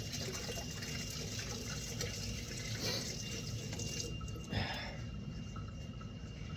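Water running from a kitchen tap into a sink, easing off about four seconds in, followed by one short splash or knock.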